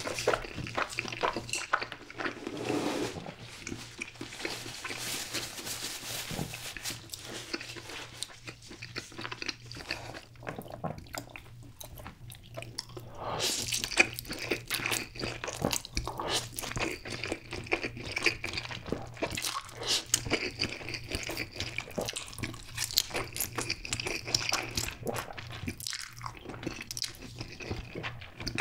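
Close-miked eating sounds: wet chewing of a mouthful of Spam coated in nacho cheese sauce. About halfway through comes a slurp of spicy stir-fried ramen noodles, followed by more chewing and sticky mouth noises.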